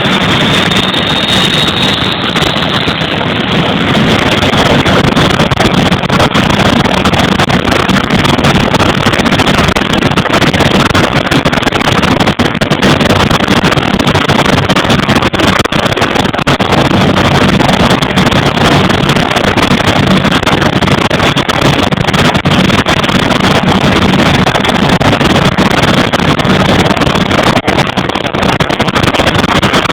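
Vickers Vanguard's Rolls-Royce Tyne turboprop engines running loud and steady, with a high turbine whine that climbs slightly in pitch over the first two seconds and then blends into the engine noise.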